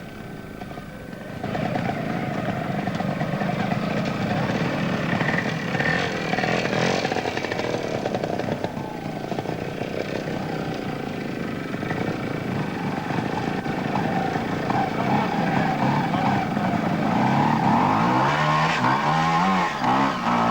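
Sidecar trials outfit's motorcycle engine revving hard and unevenly as it tackles a trials section. It is fainter for about the first second, then loud, with its pitch rising and falling as the throttle is worked and sharp revs near the end.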